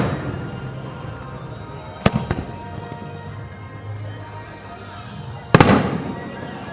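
Aerial fireworks shells bursting: the fading tail of one burst at the start, a sharp bang about two seconds in and a louder one about five and a half seconds in, each trailing off. Music plays steadily underneath.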